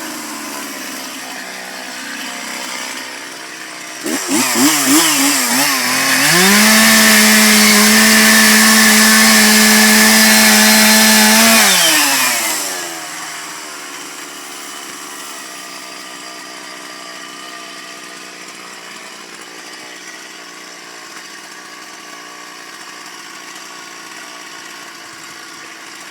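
Two-stroke chainsaw idling, then blipped a few times and run up to full throttle, held at a steady high pitch for about six seconds. It then drops back to a quieter idle for the rest of the time.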